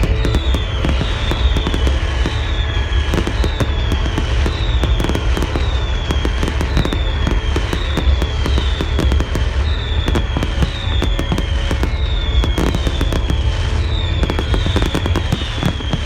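Fireworks display: a dense run of bangs and crackling over a deep rumble, with a high whistle that falls in pitch and repeats about every three-quarters of a second.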